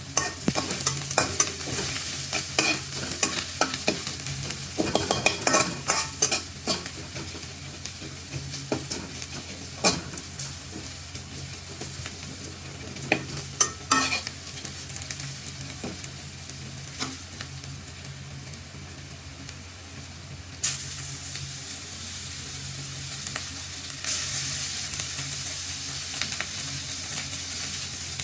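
Food frying in a hot pan with a steady sizzle, stirred with a spoon that clicks and scrapes against the pan through the first half. The sizzle grows louder about twenty seconds in and again a few seconds later.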